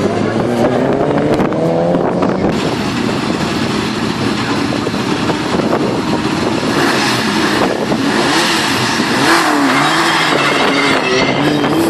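Race car engines idling on a circuit starting grid, with the throttle blipped so the pitch rises and falls several times in the second half.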